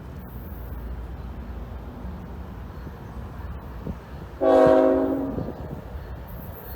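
A long freight train rumbling steadily past, with one short, loud train horn blast about four and a half seconds in. The horn sounds a chord of several notes and fades out in under a second.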